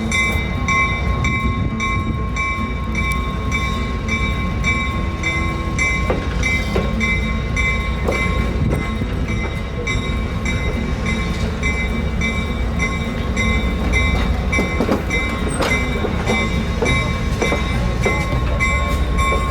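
Train running: a steady low rumble under several high steady whining tones, one of them pulsing about twice a second.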